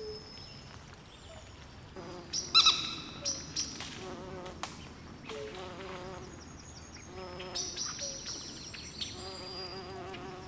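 Swamp wildlife chorus: repeated low trilling calls in bursts of about a second, under high thin chirps. A loud sharp call stands out about two and a half seconds in.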